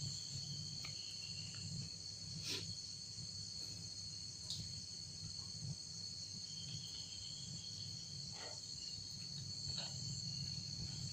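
A steady night chorus of crickets and other insects, high-pitched and unbroken, with a few faint taps scattered through it.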